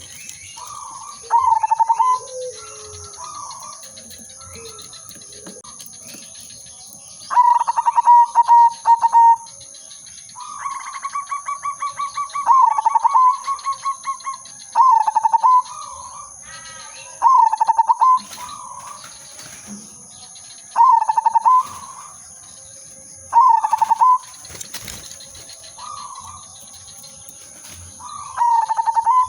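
Zebra dove (perkutut) singing: repeated short cooing phrases about every two to three seconds, with a longer run of rapid pulsed notes around ten seconds in.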